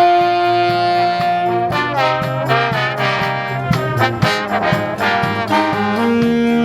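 Brass-led swing jazz band playing: a long held note for about the first second and a half, then quick runs of horn notes over a steady drum beat.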